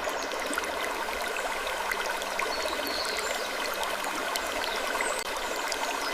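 Wood creaking ambience: a steady hiss scattered with many small clicks and a few brief, high squeaky creaks.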